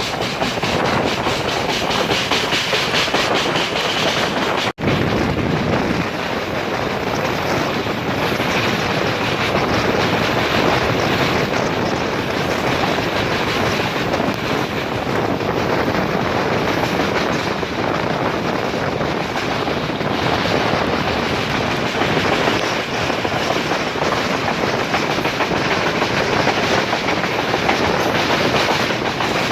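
Moving train running along the track, a steady rush and rumble of wheels on rails with the clickety-clack of rail joints. The sound breaks off for an instant about five seconds in.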